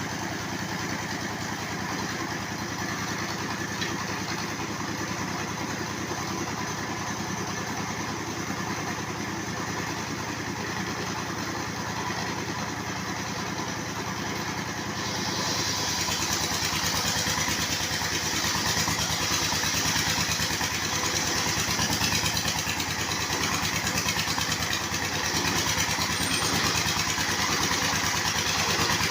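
Engine-driven circular sawmill running steadily; about halfway through the sound turns louder and brighter.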